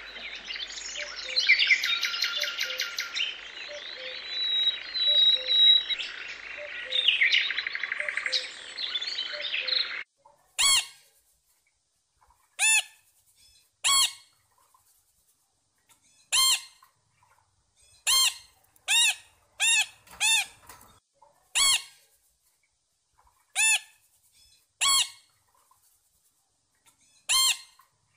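A flock of Eurasian tree sparrows chirping busily for about ten seconds. Then a sun conure takes over with loud, harsh screeches, each rising and falling, about a dozen of them one to two seconds apart.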